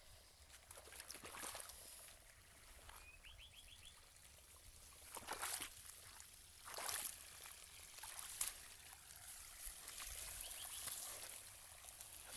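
Faint river water trickling, with a few short splashes as legs are washed in it. A bird gives a brief chirping trill twice.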